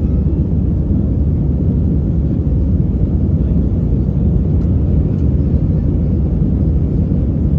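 Steady low rumble inside the cabin of an Airbus A320-200 airliner, its engines and airflow running at an even level with no change in pitch.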